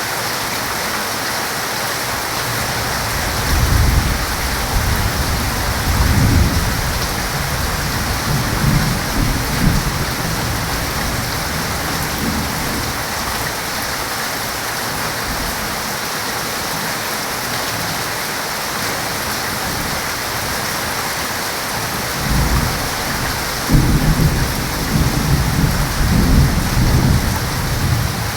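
Heavy rain falling in a steady hiss, with two long rolls of low thunder: one a few seconds in that rumbles on for several seconds, and a louder one near the end.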